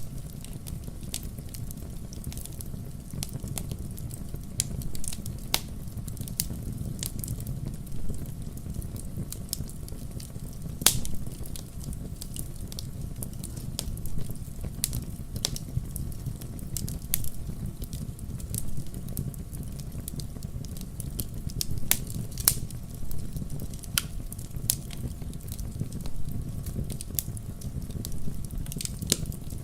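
Wood fire burning in a fireplace: a steady low rumble of the flames with irregular sharp crackles and pops from the burning logs, a few louder pops standing out.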